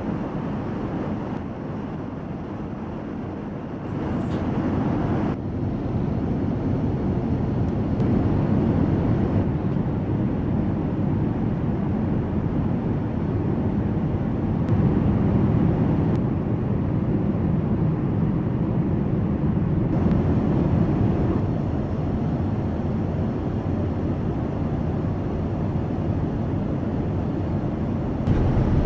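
Steady cabin noise of an Airbus A380 in flight: an even low rush of airflow and engines, getting a little louder about four seconds in.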